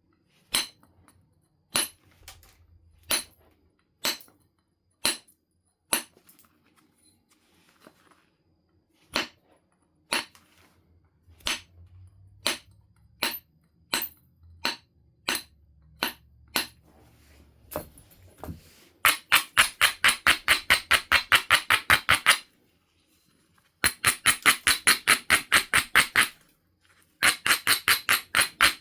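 Flint being knapped: sharp stone clicks about once a second, then three runs of quick back-and-forth rubbing strokes. The rubbing is typical of an abrader grinding the flint's edge to prepare striking platforms.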